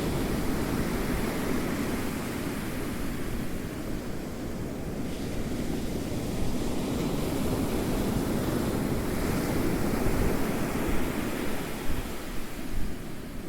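Ocean waves rolling in and washing up, a continuous rushing surf that swells and eases slowly over several seconds.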